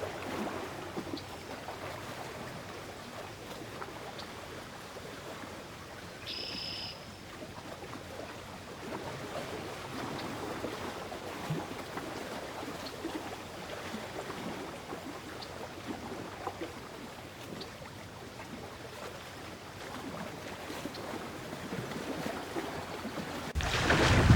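Steady rushing noise of flowing water, with faint scattered ticks and one brief high call about six seconds in; near the end a much louder rush of noise cuts in.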